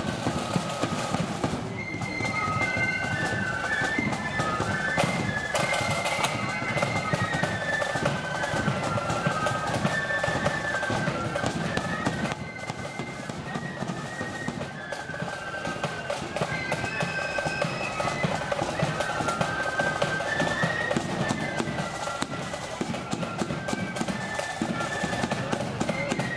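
Marching flute band playing a tune: a high flute melody over heavy, rapid drumming.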